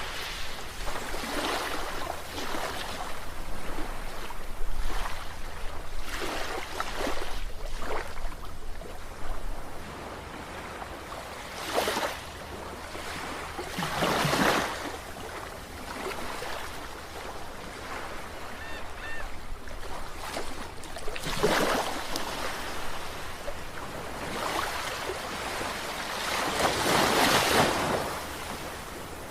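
Sea waves washing and breaking in irregular surges every few seconds, the strongest near the end.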